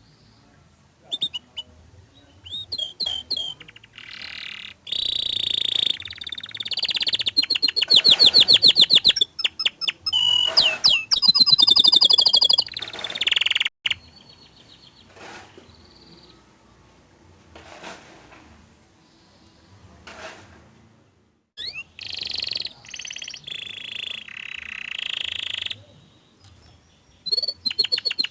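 Domestic canary in full song, delivering fast rolling trills and sharp, high notes in long phrases. The phrases are separated by short pauses, with the loudest singing a few seconds in and again near the end.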